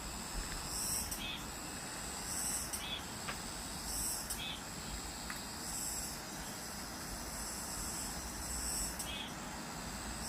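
Cicadas singing in early summer, the first of the year: a steady high-pitched buzz that swells into louder pulses every second or two.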